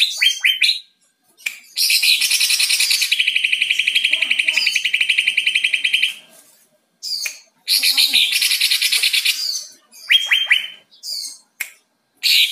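Green leafbird (cucak ijo) singing: quick sharp downward chirps, then long fast trills, with short pauses between phrases.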